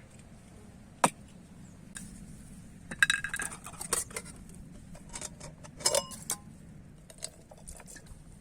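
Hard objects clinking and knocking together as they are handled. There is a single sharp click about a second in, then two busy clusters of clinks, the first with short ringing tones.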